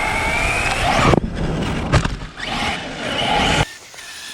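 Brushless electric motor of an Arrma Mojave RC truck whining and rising in pitch as the truck drives, over loud tyre noise, with two sharp cracks about one and two seconds in. The sound cuts off suddenly near the end.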